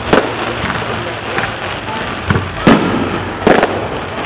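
Fireworks display: aerial shells bursting with sharp bangs, the loudest just after the start and twice more in the second half, over a steady crackle and rumble of other fireworks.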